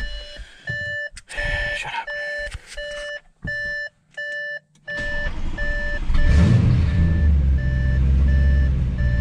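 Audi S6 interior warning chime beeping about twice a second over a few knocks. About five seconds in the engine cranks and starts, then settles into a steady idle as the chime keeps going. This is the first start after the stock turbos were refitted.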